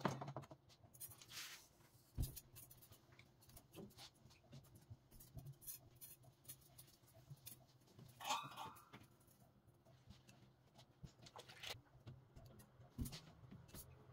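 Near silence with a faint low hum and scattered light clicks, taps and a brief rustle, as of household items being handled during cleaning.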